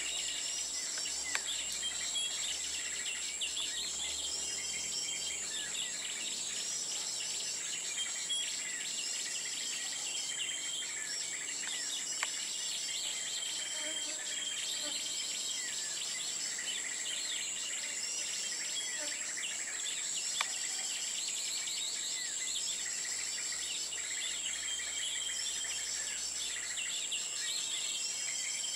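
A steady high-pitched insect drone, with small birds chirping in short phrases that repeat every second or two.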